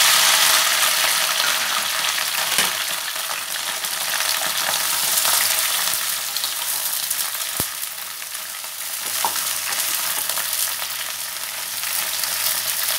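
Cut okra sizzling in hot mustard oil in a kadhai over a high gas flame, being shallow-fried and stirred around the pan. The sizzle is loudest at the start as the okra hits the oil and eases a little, with small scraping clicks and one sharp click about halfway through.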